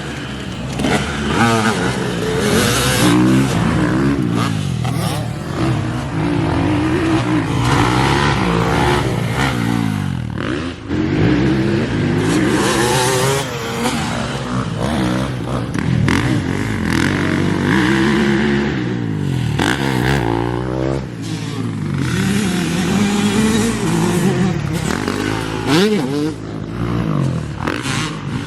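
Several motocross dirt bikes racing around a track. Their engines rev up and down over and over as they accelerate, shift and back off, and the pitch sweeps as bikes pass.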